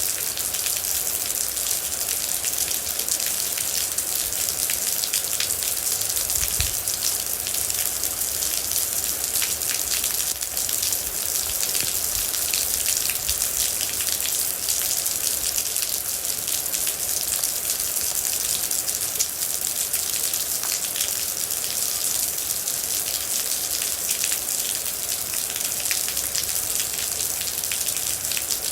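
Steady rain falling: a dense, even hiss full of small droplet ticks.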